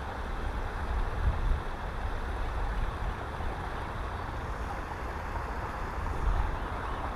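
Wind buffeting the microphone: a low, uneven rumble over a steady hiss.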